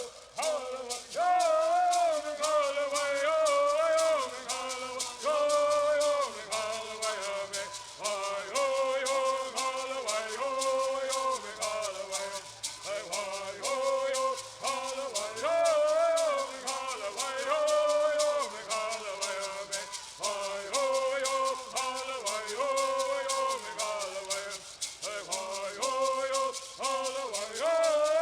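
Bird songs: singers chanting together over a steady beat of gourd rattles shaken in time.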